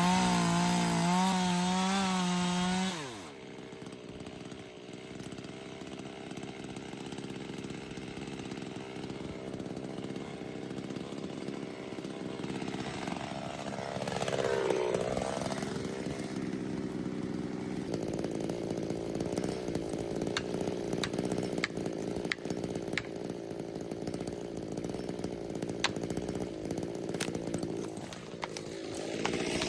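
Chainsaw running at high revs, dropping sharply to a quieter, lower run about three seconds in. Its pitch dips and rises once around the middle, and a series of short sharp ticks comes in the later part.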